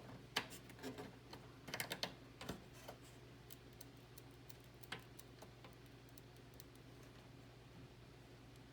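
Faint scattered plastic clicks and taps of a front-panel USB-C cable connector being worked against its motherboard header, mostly in the first three seconds with one more about five seconds in, over a low steady hum.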